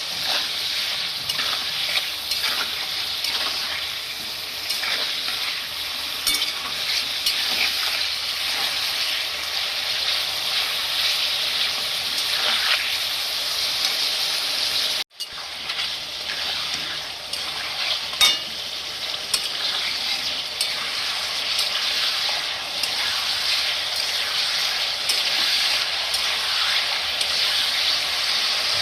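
Chicken pieces frying in hot oil in a pan, sizzling steadily while they brown, with scattered scrapes and knocks of a spatula stirring them. The sound cuts out briefly about halfway through.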